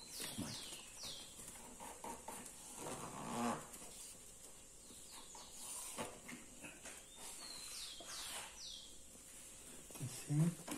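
A bird calling: a quick phrase of three or four falling whistled notes at the start, repeated the same way about eight seconds in. Between the calls there is faint rustling and a brief low murmur of a voice.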